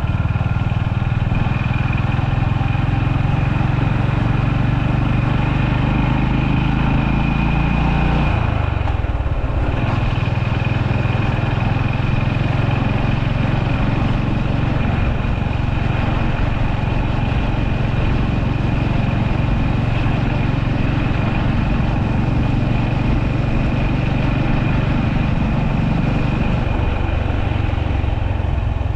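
Honda GB350S motorcycle's single-cylinder air-cooled engine running steadily. Its pitch drops about nine seconds in and shifts again near the end, as with a change of throttle or gear.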